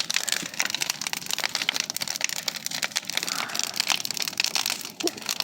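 Large bonfire crackling, with rapid, irregular snaps.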